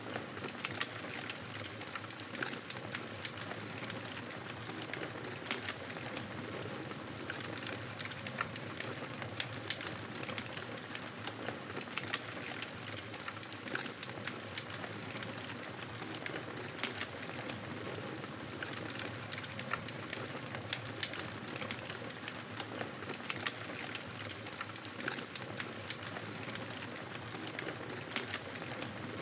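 Wood fire crackling in a fireplace: a steady hiss with frequent, irregular sharp snaps and pops.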